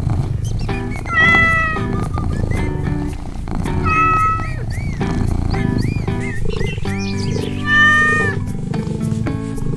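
Light background music with short plucked notes, over which a cat meows three times, each meow about half a second long.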